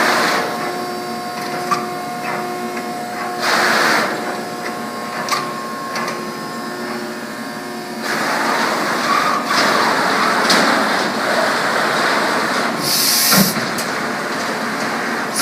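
Whitney 40-ton CNC punch/plasma machine running: a steady mechanical hum with short bursts of rushing noise. About halfway through this gives way to a louder continuous hiss, with a short sharp high hiss near the end.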